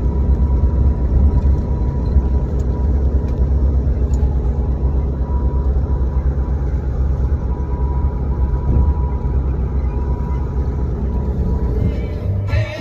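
Steady low rumble of a running vehicle engine with a faint, thin steady tone above it.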